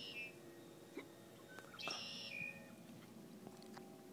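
A songbird calling twice, a buzzy, high call of about half a second that drops slightly in pitch at its end: the tail of one right at the start and a full one about two seconds in. A few faint knocks sound in between.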